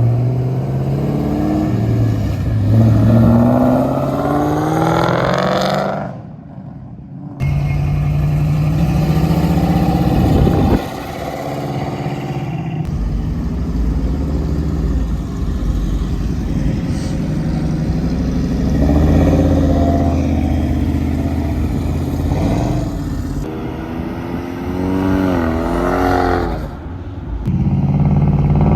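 Car engines revving hard again and again, the pitch climbing and dropping with each blip, cutting off abruptly twice and starting again.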